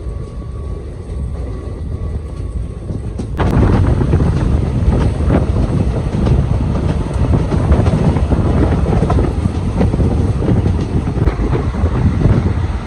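Express passenger train running at speed, heard from an open coach doorway: a steady rumble of wheels on rails. The rumble suddenly gets much louder a little over three seconds in.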